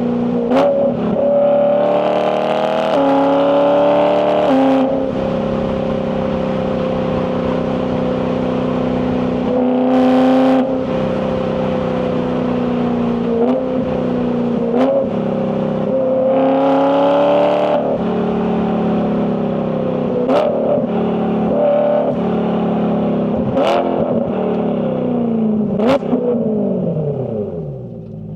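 BMW E92 M3's naturally aspirated 4.0-litre S65 V8 running hard, the revs climbing and dropping through the gears of its dual-clutch gearbox, with several sharp cracks from the exhaust at gear changes. Near the end the revs fall away as the car slows.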